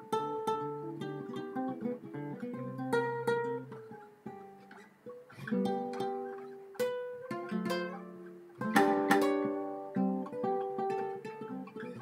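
Acoustic guitar played solo: single notes and chords plucked and left to ring, with a louder run of chords about nine seconds in.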